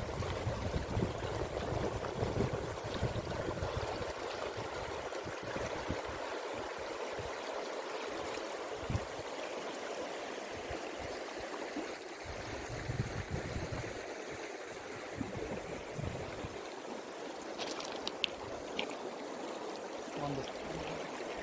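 A shallow, stony river flowing, a steady rushing babble of water, with irregular low buffeting of wind on the microphone.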